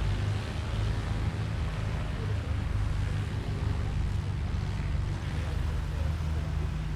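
Light aircraft piston engine and propeller running steadily at a constant pitch.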